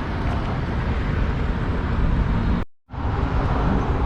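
Steady road and engine rumble heard from inside a moving vehicle, broken by a brief silent gap about three seconds in.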